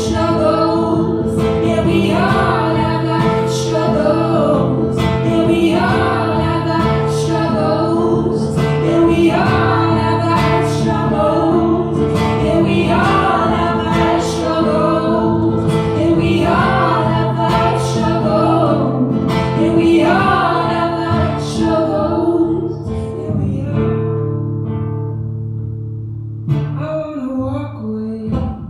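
Live song: a singer's voice in short repeated phrases, about one every two seconds, over guitar and held low notes. The music thins out and gets quieter near the end.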